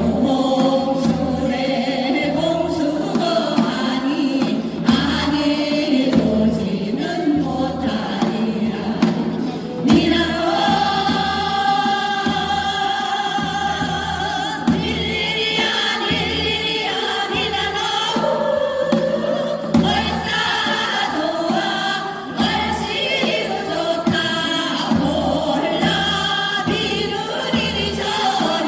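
A group of voices singing together over accompaniment with a steady low beat about once a second.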